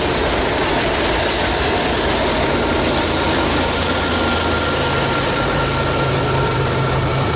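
Diesel locomotives at the rear of a freight train rolling past, wheels clattering on the rails. A thin steady whine joins about a third of the way in, and the locomotives' engines drone low in the second half.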